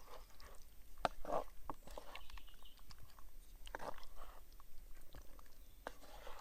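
A person chewing a mouthful of pasta, with irregular wet chewing sounds and small sharp clicks.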